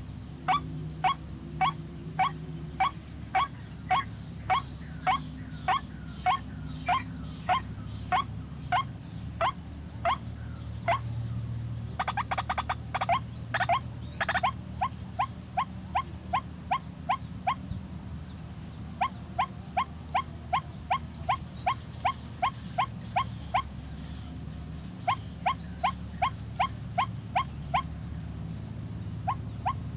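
White-breasted waterhen (ruak-ruak) calling, one short rising note repeated about twice a second in long runs, with a fast chattering flurry in the middle and a few brief pauses.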